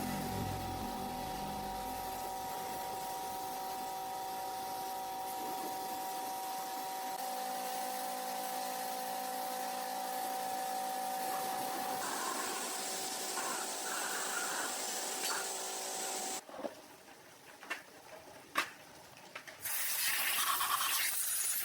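A small motor runs with a steady whine and hiss, then cuts off about sixteen seconds in. A few clicks follow, then a hiss starts near the end.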